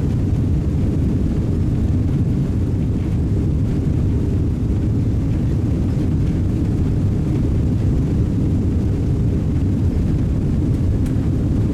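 Steady low rumble of cabin noise inside an Emirates airliner on the ground after landing: engine and air-system noise with no changes.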